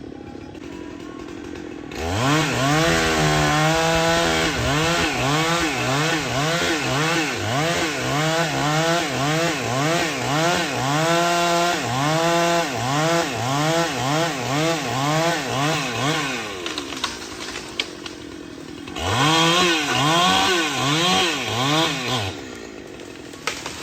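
Two-stroke chainsaw idling, then revved up and down over and over, about one to two revs a second, for some twelve seconds. It drops back near idle, then is revved again a few times near the end.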